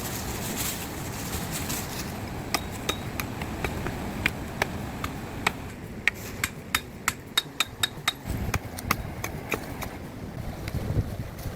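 Repeated sharp knocks of a hand tool striking, about two a second at first and quickening to about four a second midway before thinning out, over a steady rush of wind.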